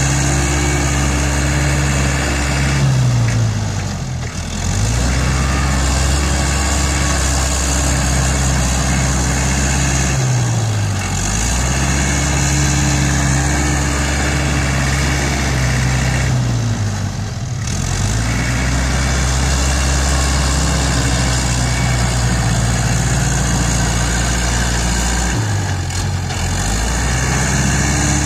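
Iseki NT554 tractor's diesel engine running under load while pushing and grading soil, its pitch sagging briefly and recovering about four times.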